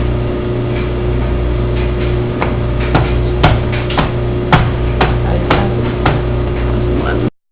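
A series of sharp knocks or taps, about two a second, over a steady low hum. The sound cuts off abruptly near the end.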